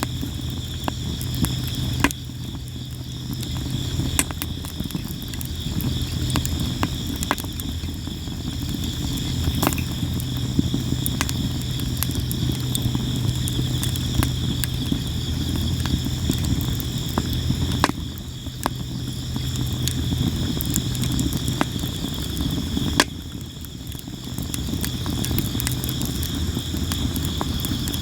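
Campfire of sawara cypress wood crackling and popping constantly, with a few sharper pops, over a low rumble of the flames. Insects chirp steadily in the background.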